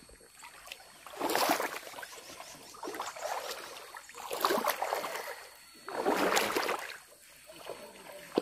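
Feet wading through a shallow river, water sloshing and splashing with each stride, about one stride every second and a half.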